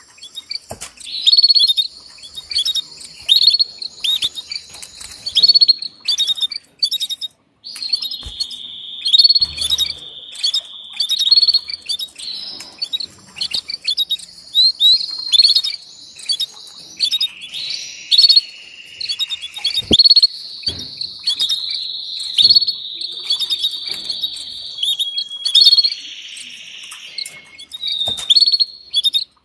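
Canaries chirping and singing: quick high chirps mixed with long, steady rolling trills that run for a few seconds each.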